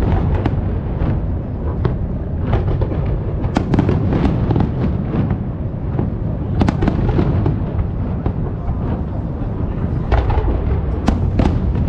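Aerial fireworks bursting in close succession: a continuous low rumble of booms with many sharp cracks and bangs overlapping.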